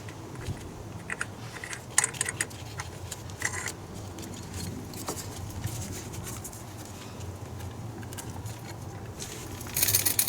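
Scattered light metallic clicks and clinks of small hard objects being handled, over a low steady hum, with a denser run of clinks near the end.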